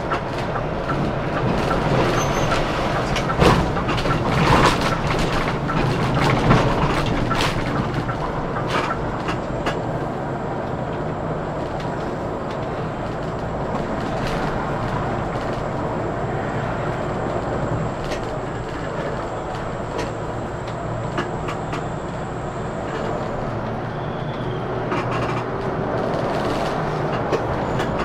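Scania K410CB coach on the move: steady engine and road rumble, with several sharp knocks and rattles in the first several seconds. A faint thin high whine runs under it and stops about three-quarters of the way through.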